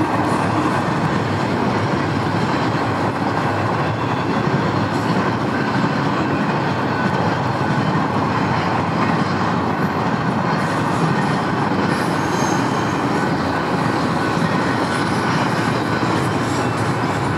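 Double-stack container freight train rolling past at a level crossing: the steady noise of cars running over the rails, unbroken and even in loudness.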